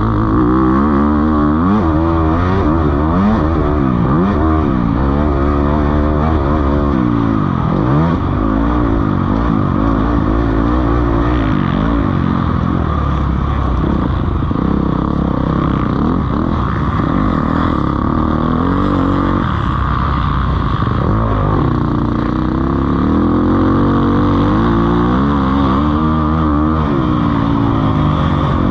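Several motocross bikes racing, their engines revving up and dropping over and over as they shift and take the track; the engine pitches overlap and sweep up and down throughout.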